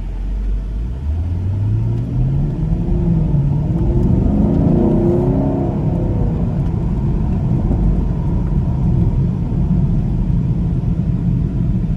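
Car engine accelerating hard, its note rising steadily for about four seconds before settling into a steady low rumble.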